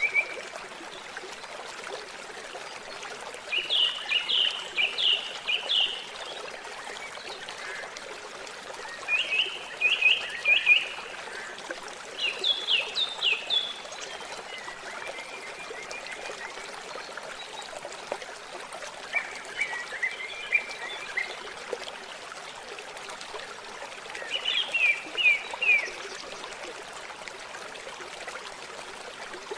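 Water trickling steadily, with a songbird singing short phrases of quick, rapid notes every few seconds, about six phrases in all.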